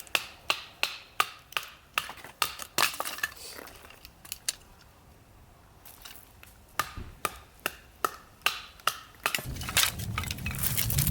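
Two runs of sharp, evenly spaced knocks or chops, about two to three a second, with a pause between them. A low rumble comes in near the end.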